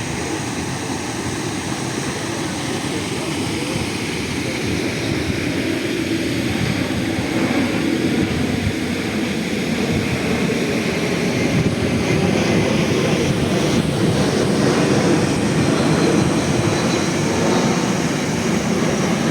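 Waterfall pouring into the sea: a steady rush of falling water that slowly gets louder.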